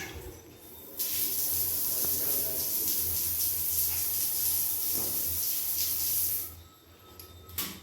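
Water spraying steadily from a bathroom wall mixer's shower outlet, turned on suddenly about a second in and shut off with a quick fade just after six seconds. A low steady hum runs underneath.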